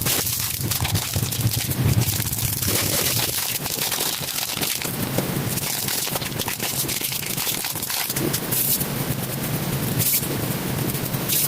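Slime being squished and mixed by hand, a dense run of small wet crackles and pops.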